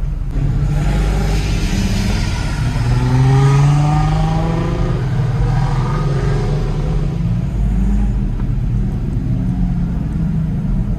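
Car engine revving hard and accelerating, its pitch climbing in several rising sweeps over a few seconds before settling back into a steady low rumble.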